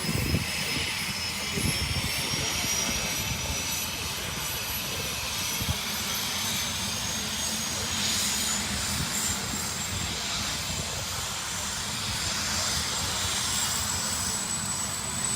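Helicopter turbine engine spooling up for take-off: a high whine that rises slowly and steadily in pitch over the low beat of the rotor.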